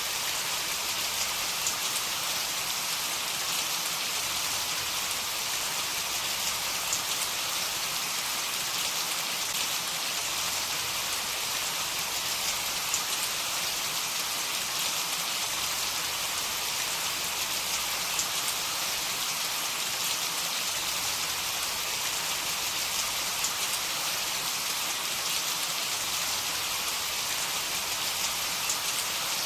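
Heavy rain falling steadily, an even hiss with faint scattered drop ticks; no thunder.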